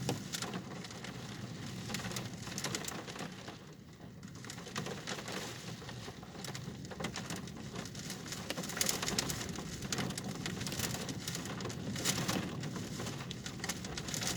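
Rain pattering on a car, a steady hiss of drops with many small ticks, over a low steady hum.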